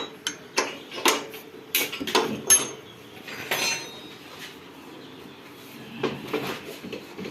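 Metal tools and steel gearbox parts clinking and knocking together: a quick run of sharp clanks over the first few seconds, a quieter stretch, then a few more clanks near the end.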